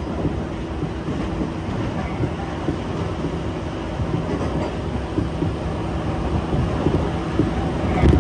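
Tobu Urban Park Line local train running at speed, heard from inside the passenger car: a steady low rumble of wheels on rail, with a louder knock just before the end.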